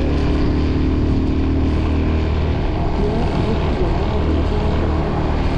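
Motorcycle engine running steadily at cruising speed, a low continuous drone mixed with the rush of wind on the microphone.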